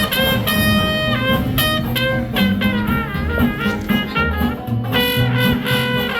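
Jazz band playing, with horns carrying a sliding, bending melody over a strong bass line.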